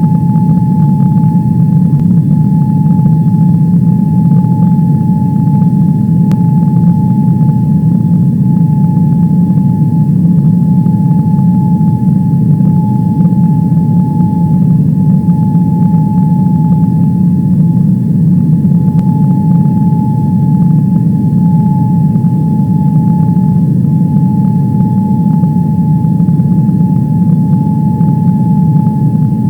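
Airliner engines heard from inside the passenger cabin: a loud, steady low rush with a steady high whine over it and no change in pitch or level.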